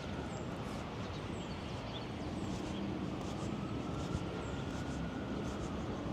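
Steady city street noise, a rumble of traffic. About two seconds in, a vehicle engine's low hum joins it, along with a faint tone that slowly rises and falls. A few faint high chirps can be heard.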